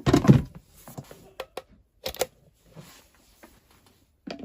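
Clicks and knocks of a power plug being pushed into a socket and the electric pressure cooker and its cord being handled, with the loudest knock at the very start and scattered sharp clicks after it.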